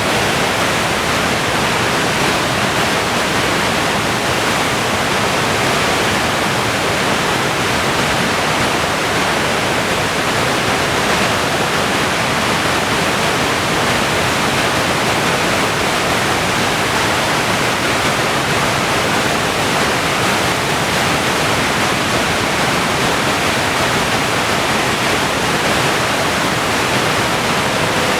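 Whitewater rapids and falls of a large river rushing in a steady, unbroken wash of noise.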